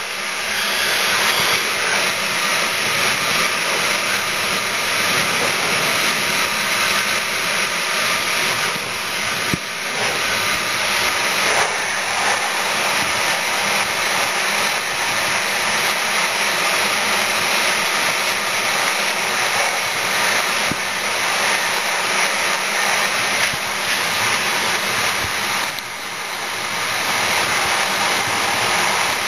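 Steady loud rushing noise of a train running at speed, air and wheel-on-rail noise blended into one roar. It swells up in the first second, with a couple of faint knocks partway through and a brief dip near the end.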